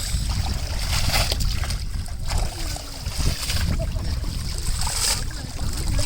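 Water splashing and sloshing in several short bursts over a steady low rumble, as a fishing net is worked in floodwater.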